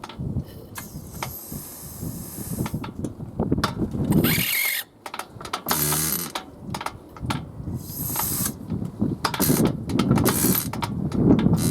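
Small engine on a test run with a freshly replaced ignition condenser, running with a rapid mechanical clatter that surges and drops unevenly.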